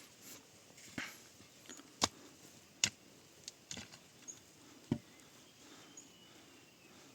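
Irregular knocks and thuds from hand potato harvesting, about six in a few seconds, the loudest about two and three seconds in. A few faint high chirps sound in the background.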